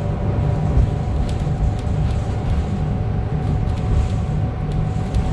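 Cabin sound aboard a 2025 Gillig BRT+CNG 40-foot transit bus: a steady low rumble of the natural-gas engine and road noise, with a faint steady whine and scattered light rattles.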